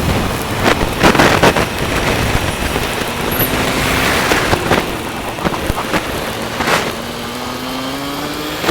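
A moving bus: steady road and engine noise with several short knocks and rattles, and an engine note that climbs in pitch near the end.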